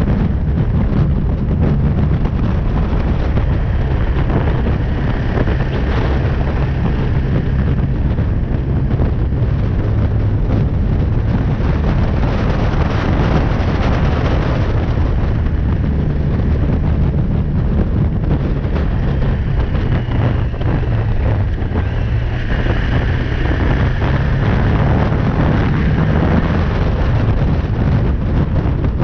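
BMW G310R's single-cylinder engine running under way, its note shifting up and down several times with throttle and gear changes, with wind rushing over the microphone.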